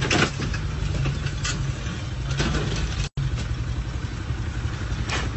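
A vehicle engine running at idle: a steady low rumble with a few short clatters over it. The sound cuts out completely for a moment a little after three seconds in.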